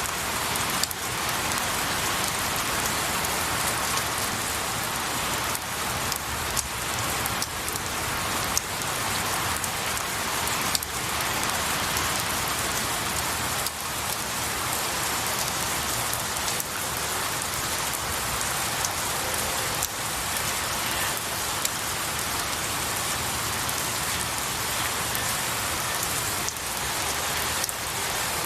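Steady rain falling on pine needles and branches, a dense even hiss with scattered sharper drips and taps.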